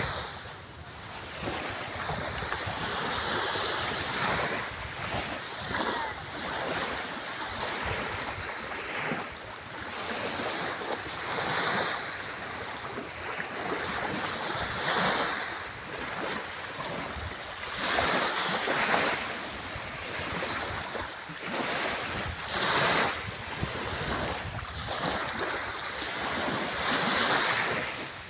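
Sea waves breaking and washing up the shore, the surf swelling and falling back every few seconds, with some wind on the microphone.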